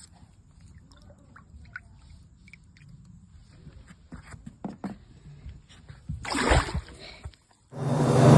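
Faint scattered clicks and knocks, then a short loud rush of noise about six and a half seconds in, then background music coming in just before the end.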